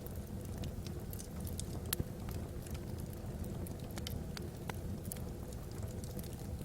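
Logs burning in a fireplace: a steady low rumble of the fire with frequent irregular crackles and pops, the sharpest pop about two seconds in.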